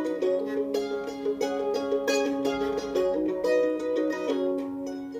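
Live music: a plucked string instrument strumming chords in a steady rhythm, an instrumental passage between sung lines of the song.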